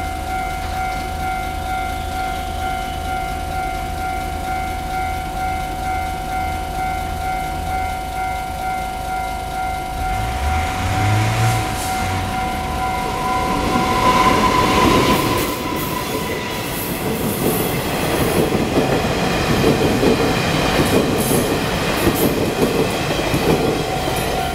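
Level-crossing warning signal sounding steadily. About ten seconds in, the diesel locomotive's engine rumble comes in as it approaches, with a short horn note about fourteen seconds in. Then the train's carriages run past with the wheels clattering over the rail joints.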